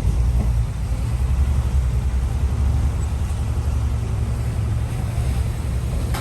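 Heavy diesel earthmoving machinery running steadily with a deep low rumble, with a short clank at the very end.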